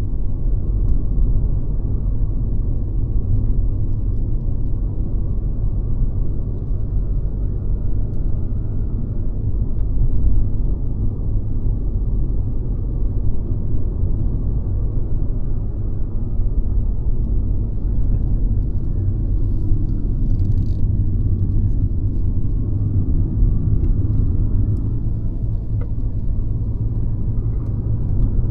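Mercedes-Benz C-Class (W206) under way: a steady low rumble of engine and road noise while cruising.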